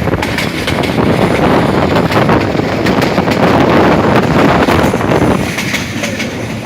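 Moving passenger train running on the track, a loud steady rumble with many wheel and carriage rattles. Wind buffets the microphone.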